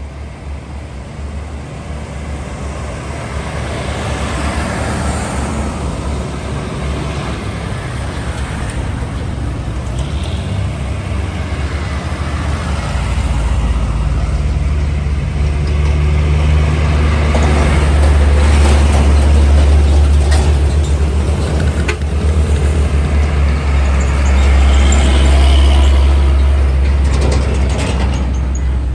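Heavy diesel truck engine labouring close by on the road, a deep rumble that swells about halfway through and stays loud before easing near the end, over steady traffic noise.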